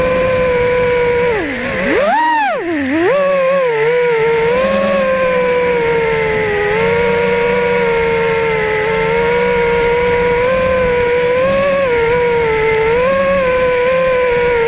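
Quadcopter drone's propellers whining steadily in flight, the pitch wavering a little. About two seconds in the pitch dips sharply and swoops back up.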